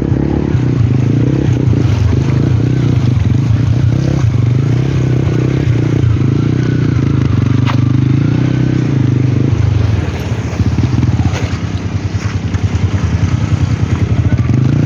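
Motorcycle engine running steadily under load on a rough trail. About ten seconds in it drops to a slower, pulsing chug for a few seconds, then picks up again.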